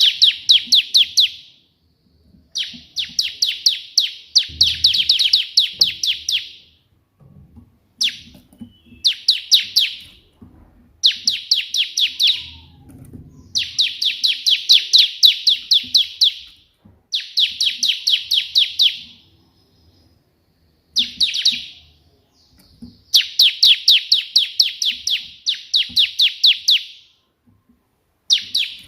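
Bar-winged prinia (ciblek) singing in its rapid 'tembakan' style: bursts of fast, evenly repeated sharp high notes, about four to five a second, each burst lasting one to three seconds, repeated again and again with short pauses.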